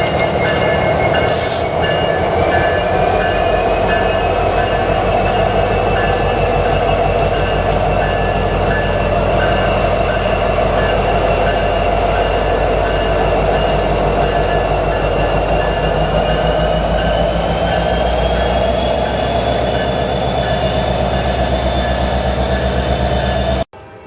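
Freight train rolling past close by: a loud, steady rumble of railcars and wheels with high wheel squeal whose pitch slowly rises twice. It cuts off suddenly near the end.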